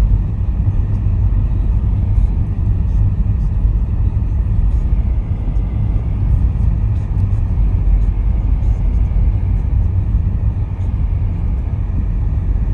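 Steady low rumble of a car driving, heard from inside the car, its tyres running over an ice-covered road, with faint scattered ticks.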